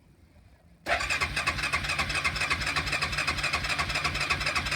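Cold engine of a 2003 Yamaha Kodiak ATV being cranked over on its starter, a fast, even mechanical chugging that starts abruptly about a second in and keeps going steadily.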